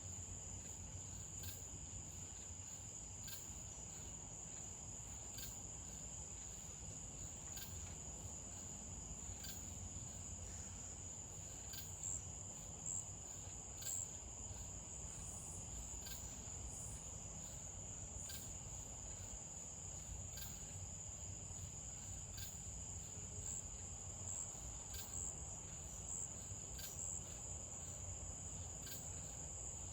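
Crickets trilling in one steady, unbroken high tone, with faint clicks about every two seconds and a low rumble underneath.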